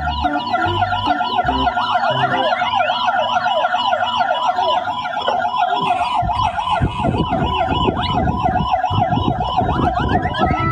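Electronic emergency-vehicle siren in a fast yelp, warbling up and down about four times a second. About halfway through, other rising swoops join it.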